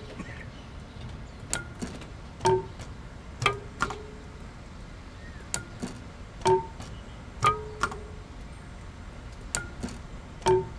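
Sparse, sharp pitched strikes from the sound-art piece, about one a second in groups of three with short pauses between groups. Each strike carries a brief ringing tone.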